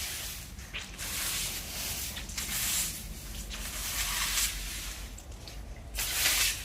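Repeated swishing strokes of a broom sweeping storm debris off a paved lane, one stroke about every second and a half, over a steady low background rumble.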